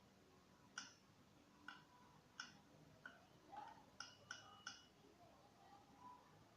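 Near silence: room tone with about eight faint, short ticks scattered irregularly through it.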